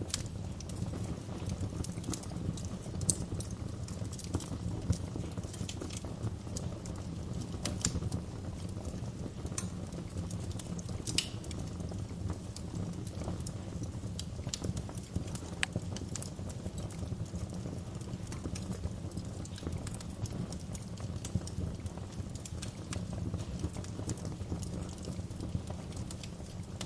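Wood fire crackling: scattered sharp pops and snaps at irregular intervals over a steady low rumble of burning.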